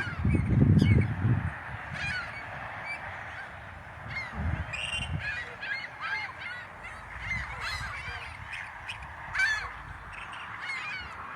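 A flock of waterbirds calling: many short, overlapping honking calls throughout. A low rumble in the first second and a half.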